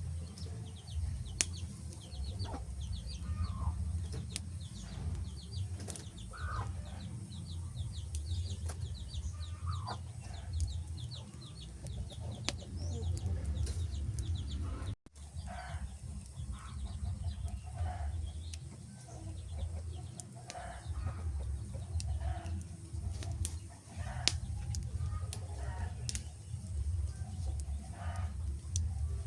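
Wood fire crackling, with sharp scattered pops over a steady low rumble, mixed with short repeated bird-like calls. The sound cuts out for a moment about halfway through.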